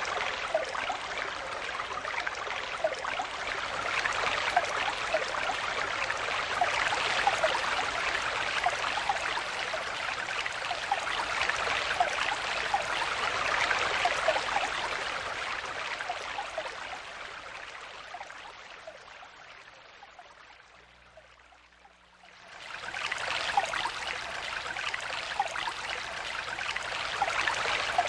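Stream water flowing and babbling, with many small bubbling splashes. About two-thirds through, the sound fades away almost to silence over several seconds, then comes back quickly.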